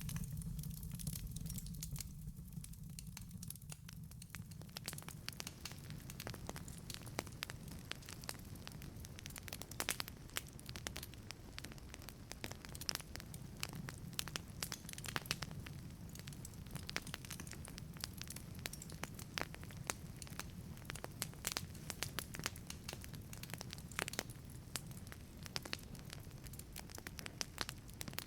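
Wood fire burning in a wood-fired pizza oven: irregular sharp crackles and pops over a steady low rumble of the flames.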